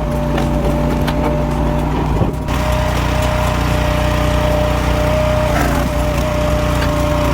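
Engine-driven firewood processor running steadily, with a steady whine above the engine. A knock comes about two seconds in and another near the end.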